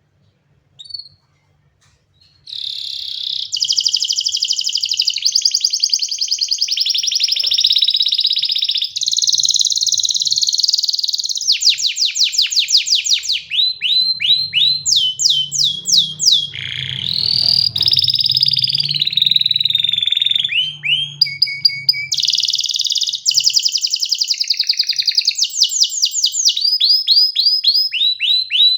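Domestic canary singing: after one short chirp, a long unbroken song starts about two and a half seconds in, made of fast rolling trills, rapid runs of repeated notes and sliding whistles that change every second or two.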